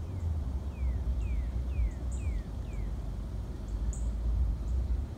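A bird calling a run of six short down-slurred whistled notes, about two a second, over a steady low rumble, with a few faint high ticks.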